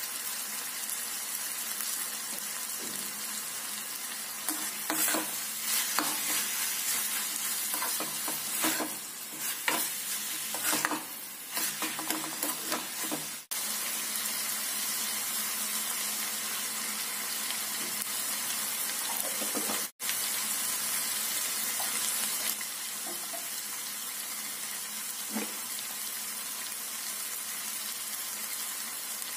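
Chopped onion, tomato, capsicum and French beans sizzling steadily in oil in a kadai. For several seconds, starting about five seconds in, they are stirred, with irregular clattering and scraping against the pan. The sound cuts out briefly twice.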